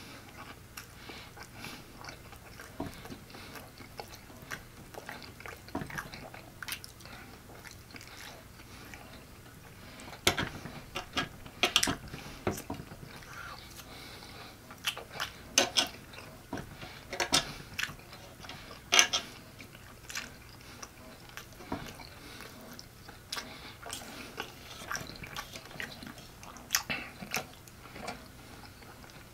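Close-up chewing and biting, with irregular sharp mouth clicks that come thicker about a third of the way in, and a metal fork scraping and tapping a metal tray.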